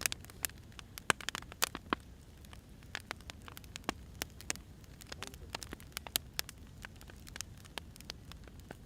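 Firewood fire crackling: irregular sharp pops and snaps over a steady low rumble of the burning logs.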